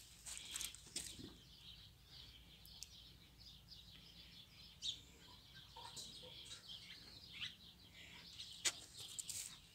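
Faint, scattered bird chirps in the background, with a few soft clicks and rustles here and there, the clearest near the end.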